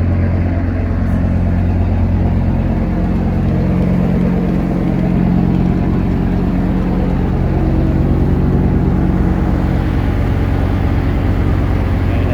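Boat engine running steadily with a low, even drone; its tone shifts slightly in the middle and eases back a couple of seconds before the end.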